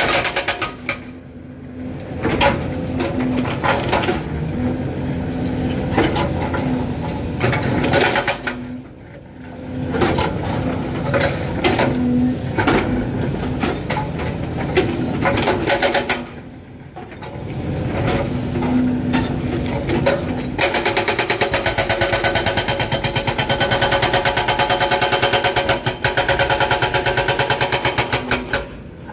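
Excavator-mounted hydraulic breaker hammering rock in bursts, over the excavator's diesel engine running. In the last third it settles into one long, even run of rapid blows.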